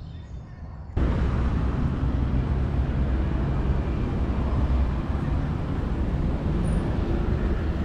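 Steady vehicle noise with a low engine rumble, starting abruptly about a second in.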